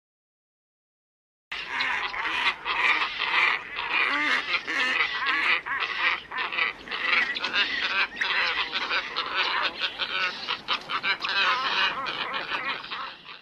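Black ibis calling as a flock: a dense chorus of many overlapping calls starts abruptly about a second and a half in and keeps on without a break until it cuts off at the end.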